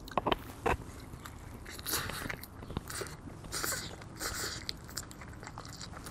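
A person biting into a fried chicken sandwich and chewing it: a few sharp crunches in the first second, then chewing with wet mouth sounds.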